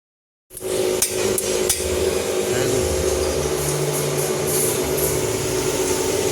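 A machine running with a steady hum that starts abruptly, with a few sharp knocks a second or so in.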